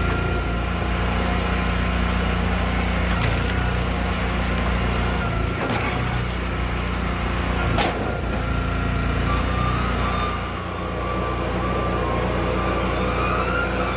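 Small engine on a gas-powered hydraulic log splitter running steadily, with a few short sharp knocks.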